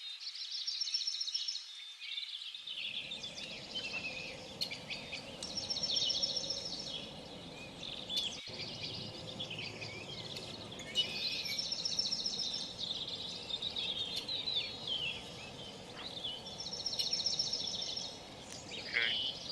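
Small birds chirping, with a rapid high trill that comes back every five or six seconds among shorter chirps, over a steady background hiss.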